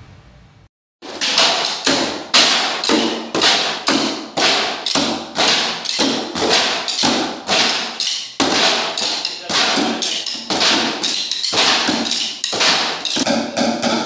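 Group percussion: drums struck together in a steady beat of about two hits a second, starting suddenly about a second in.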